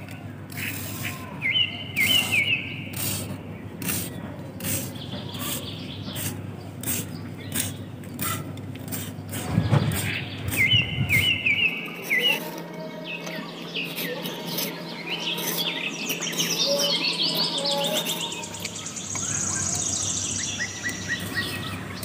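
Small birds chirping in repeated short phrases, over many short scratches and scrapes of a small toy hoe digging loose sand.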